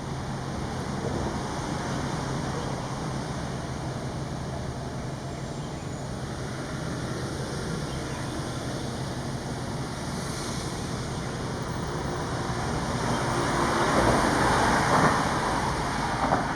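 Steady road traffic noise with a low hum, swelling as a vehicle passes near the end.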